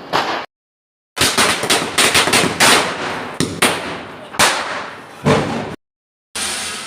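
Diwali firecrackers going off in a quick run of sharp bangs and cracks, then a few single bangs spaced about a second apart. The sound cuts out completely twice, for about half a second each time.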